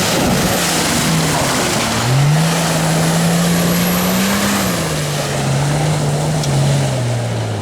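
Off-road 4x4's engine held at high revs under load as it tries to get across an obstacle. The revs rise about two seconds in and ease down a little after four and a half seconds, over a loud, steady rushing noise.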